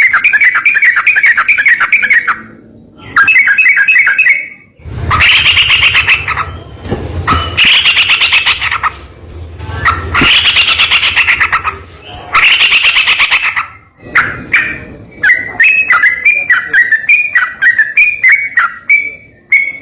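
Yellow-vented bulbul (trucukan) singing loudly: bursts of fast, rattling trills a second or two long with short gaps between, then from about fourteen seconds in a run of short sliding notes at about three a second.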